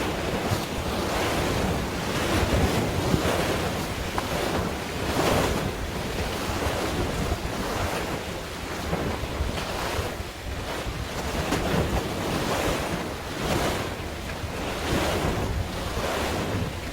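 Sea waves washing, with wind buffeting the microphone, swelling and easing in irregular surges every second or two.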